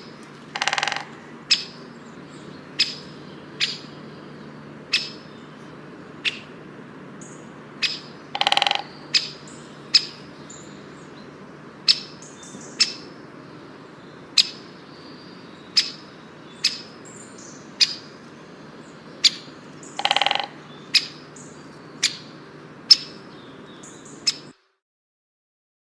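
A bird calling over and over: short, sharp, high calls about once a second, with three longer, rougher calls among them. A low steady hum runs underneath, and everything cuts off suddenly near the end.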